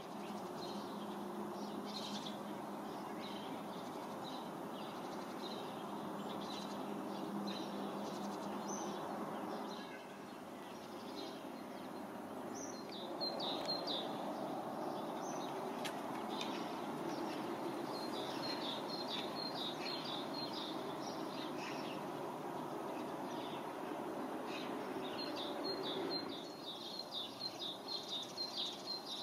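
Small birds chirping in quick repeated series over a steady background noise. The background changes about a third of the way in and drops away near the end, where the chirping is clearest.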